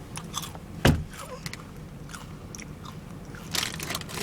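Crunching and chewing of chips close to the microphone inside a car, with one loud sharp knock about a second in, over a low steady hum.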